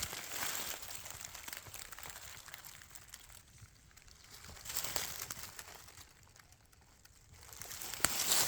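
Rustling and crunching of dry forest litter underfoot, coming in uneven surges with small snaps, quieter for a moment about two-thirds through, then louder again near the end.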